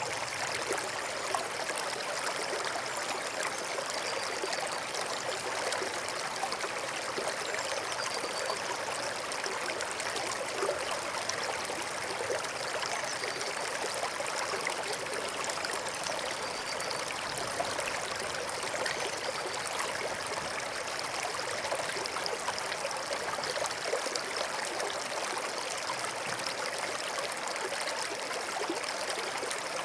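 A stream running: a steady babbling and trickling of flowing water, unchanging throughout.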